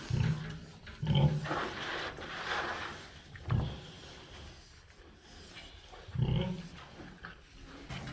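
A farm animal giving a few short, low calls.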